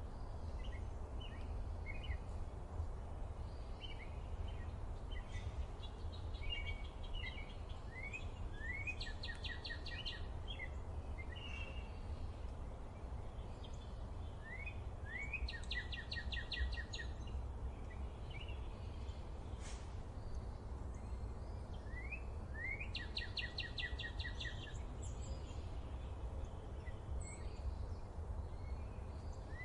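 Forest birdsong: a songbird repeats the same short phrase about every seven seconds, two rising notes then a quick run of repeated notes. Scattered short chirps from other birds fall between the phrases, over a steady low rumble.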